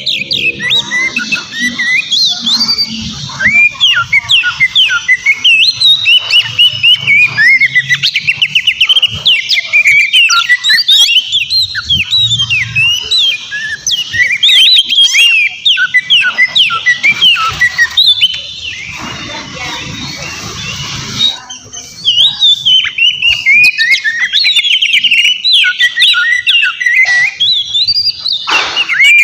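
Oriental magpie-robin singing a loud, fast, unbroken run of varied whistled notes and chattering phrases. Around two-thirds of the way through, the song briefly thins into a softer, hissier stretch, then picks up again.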